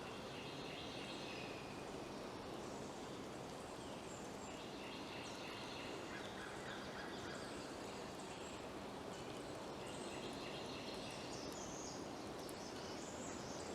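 Steady rushing noise from a Kelly Kettle heating over a fatwood fire as the water nears the boil, with faint bird chirps.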